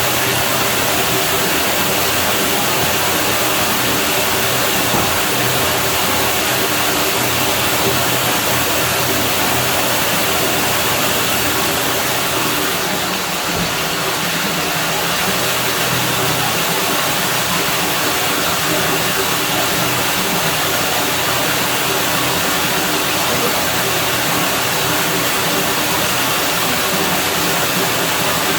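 Pool water running: a steady rushing noise with a low hum underneath.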